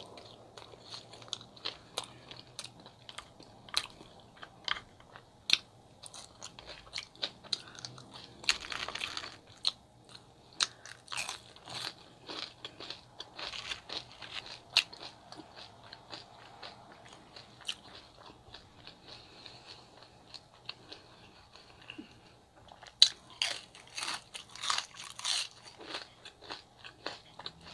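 Close-miked chewing and biting of a chicken gyro wrap: repeated wet mouth clicks and crunches, with denser bursts of crunching about nine seconds in and again near the end.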